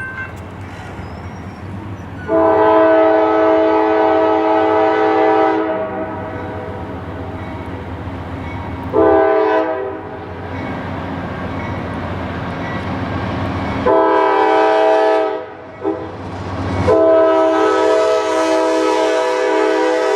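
Diesel locomotive air horn sounding five chord-like blasts, the first and last long, over the rumble of an approaching train.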